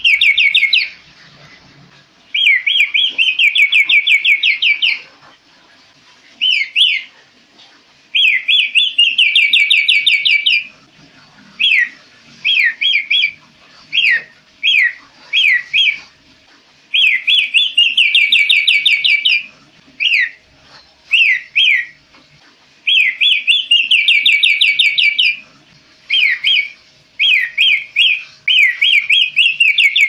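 A kaso-kaso (scimitar babbler) singing loudly and continuously. Runs of rapid trilled notes, each a couple of seconds long, alternate with single slurred whistles, over and over.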